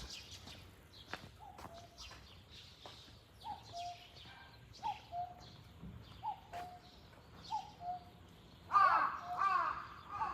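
Common cuckoo calling its two-note, falling 'cuck-oo' over and over, about once every second and a half, with other small birds chirping. Near the end a louder run of sharper, higher calls from another bird comes in over it.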